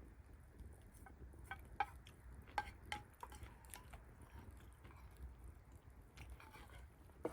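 A few faint clinks of utensils against dishes, short taps with a brief ring, mostly between one and three seconds in, over a low steady rumble.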